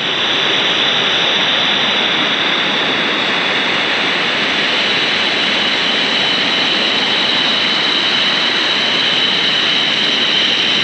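Waterfall pouring into a river pool: a loud, steady rush of falling water that stays even throughout.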